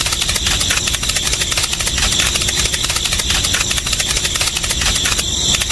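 A small engine running steadily with a fast, even rattle.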